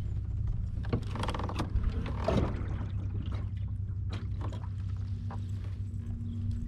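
A kayak moving on the water: a steady low rumble with scattered light knocks and clicks, busiest about one to two seconds in.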